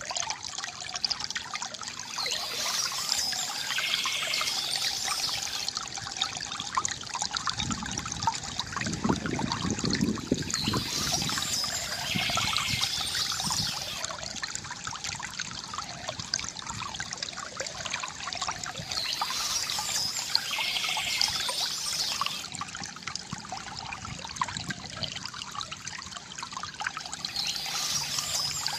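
Water trickling and gurgling steadily from a bamboo fountain spout into its basin. A brighter, higher sound swells in four times, about every eight seconds, and a deeper gurgle rises briefly near the middle.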